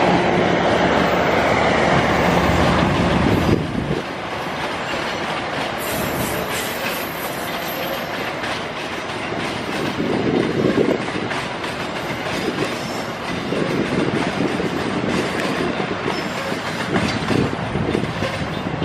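Passenger train coaches rolling past on the rails, loud for the first few seconds, then dropping off suddenly as the train draws away over the points. Wind gusts buffet the microphone later on.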